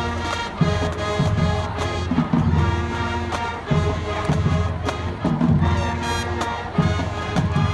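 Marching band playing: brass holding sustained chords over a steady beat of low drum hits.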